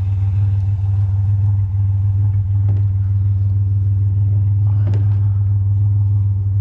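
Truck engine idling with a steady low drone, with a couple of light knocks about three and five seconds in.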